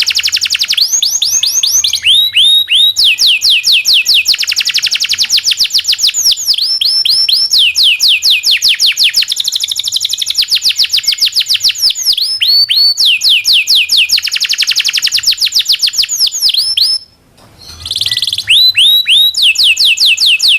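Domestic canary singing a long song of rapid rolls and trills. Phrase after phrase of fast, evenly repeated down-sweeping whistled notes, the tempo and pitch changing between phrases, with one short break near the end.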